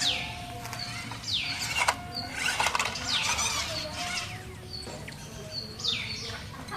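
A bird calling with repeated sharp, falling chirps, one every second or so, and a couple of clicks about two seconds in.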